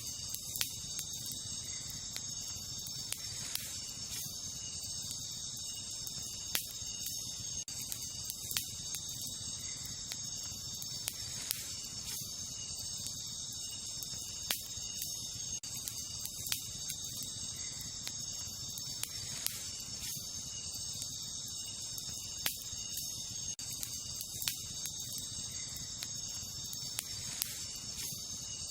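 Wood campfire crackling, with sharp pops every second or two, over a steady high chorus of crickets and other night insects.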